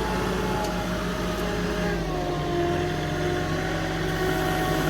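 Truck engine running steadily, its pitch drifting slightly upward in the second half.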